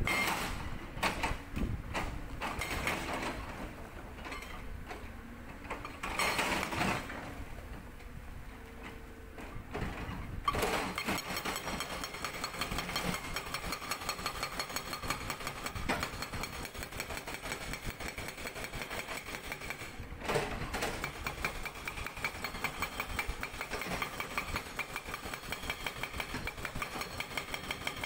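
Excavator engine and hydraulics running unevenly, then about ten seconds in a hydraulic rock breaker starts hammering with rapid, even blows, pausing briefly around twenty seconds before hammering on.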